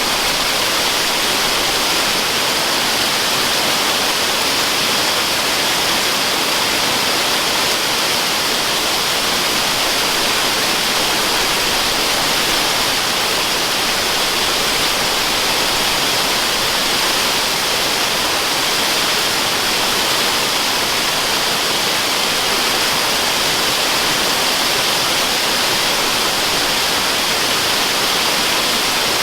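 Steady rushing of a waterfall, a constant even hiss with no breaks or changes, strongest in the upper range.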